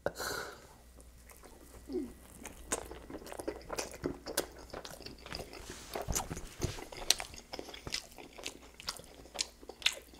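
A person chewing a ranch-dipped bite of Pizza Hut pizza close to the microphone: a bite at the start, then irregular small wet smacks and clicks of chewing.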